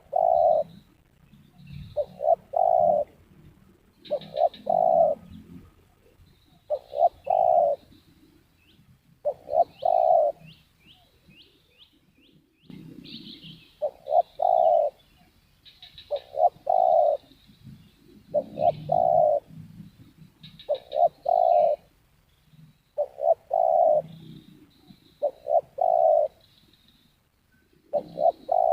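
Spotted doves cooing: short phrases of two or three low coos, repeated about every two to three seconds, with small birds chirping faintly high above.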